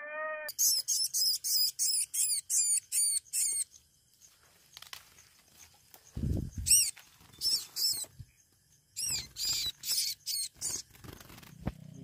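Runs of sharp, very high-pitched bird chirps, each note rising and falling, about three a second: eight in a row at the start, then a few more in short groups through the second half. A single low thump comes about six seconds in.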